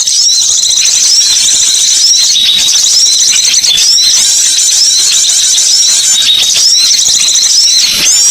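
A recorded lure track of small wild birds calling: a dense, high-pitched chatter with a short hooked call repeating about once a second.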